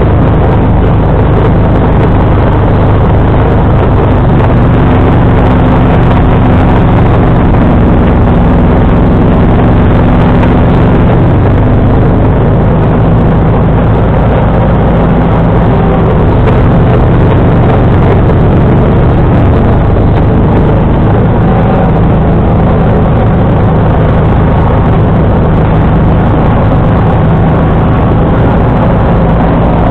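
John Deere 445 garden tractor's V-twin engine running steadily at working speed while driving a 47-inch snowblower through heavy wet snow, its pitch dipping and recovering slightly a few times.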